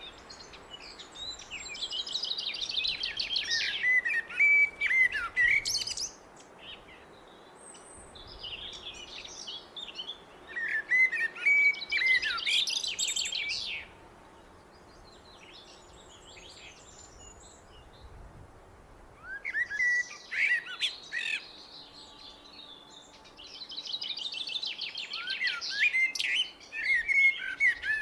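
Blackbird singing: four long phrases of rich, varied whistled and twittering notes, with short pauses between them.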